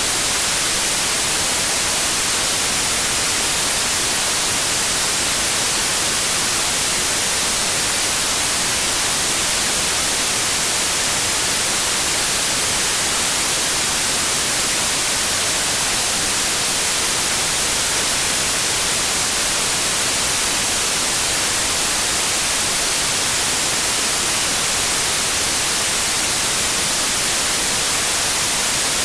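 Steady, unchanging white noise: an even, bright hiss.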